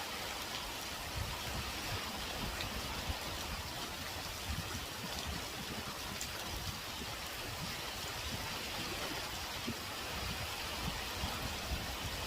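Heavy typhoon rain pouring steadily as a dense, even hiss, with wind buffeting the microphone in irregular low rumbles.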